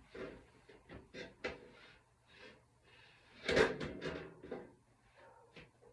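Handling noise: a series of light knocks and clunks with some rustling, the loudest clunk about three and a half seconds in, as an antenna is set in place at a window.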